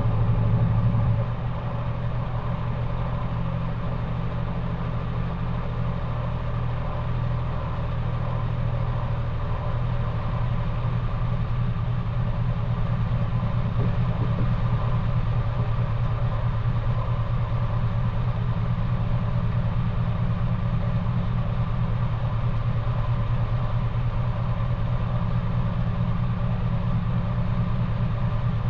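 Maytag washing machine running through a cold wash cycle: a steady low motor hum with a fine, rapid churning pulse. It eases slightly about a second in and grows a little louder again partway through.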